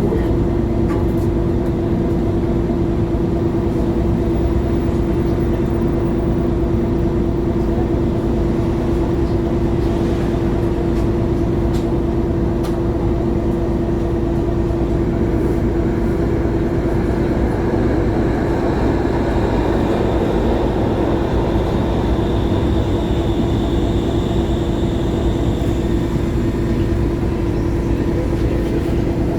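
2011 MAN A23 Lion's City G articulated diesel bus under way, its engine running with a steady drone and a constant hum. A higher whine rises in about halfway through and fades out near the end.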